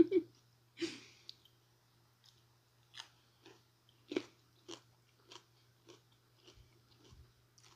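Close-up chewing of a raw cucumber slice dipped in spicy mayo: soft, wet crunches about two a second, with a louder bite about a second in and another about four seconds in.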